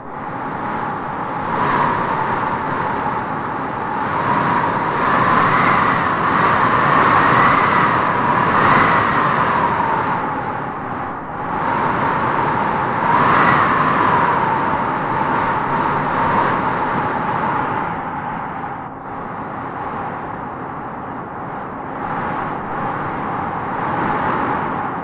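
Wind howling in gusts: a steady rush with a whistling tone that swells and fades, strongest from about five to nine seconds in and again around thirteen seconds.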